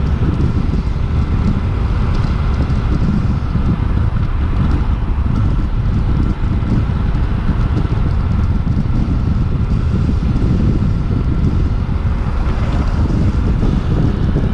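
Suzuki V-Strom 800DE's parallel-twin engine running steadily while riding, under heavy wind buffeting on the microphone.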